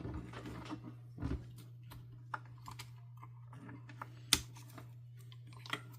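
Scattered small clicks and taps of vacuum cleaner parts being handled during disassembly, the sharpest about four seconds in, over a faint steady hum.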